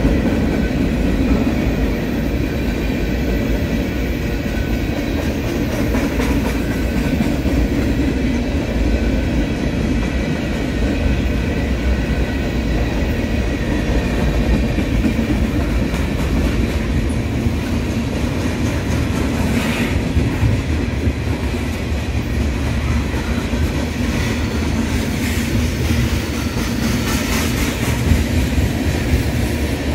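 CSX freight train's cars rolling past close by: a steady, loud rolling noise of steel wheels on the rails, with rapid clicks as the wheels cross rail joints.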